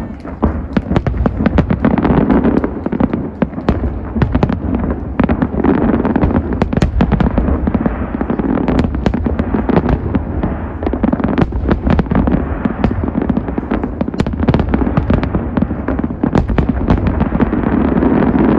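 Large fireworks display in a dense, unbroken barrage: rapid overlapping cracks and bangs over a continuous deep rumble of shell bursts, with no let-up.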